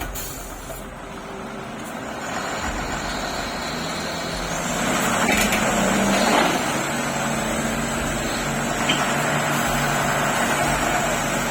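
Heavy container lorry's diesel engine running, getting louder about two seconds in and then holding a steady drone.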